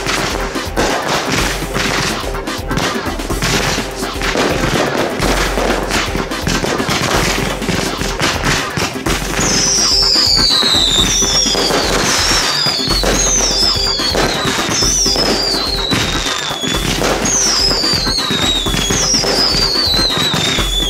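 Fireworks going off: a dense run of pops and crackles. From about halfway in, a series of falling, wavering whistles follow one another about every second or so.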